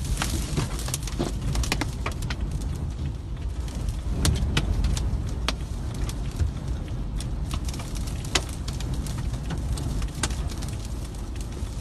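Strong storm wind buffeting with a deep, steady rumble, and scattered sharp ticks of wind-blown grit and small debris striking.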